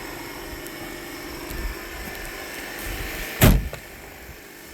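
A steady mechanical hum with a single loud thump about three and a half seconds in.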